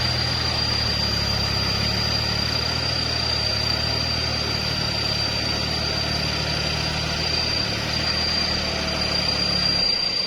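Kubota tractor's diesel engine idling steadily, its low note shifting near the end. A thin steady high whine runs over it.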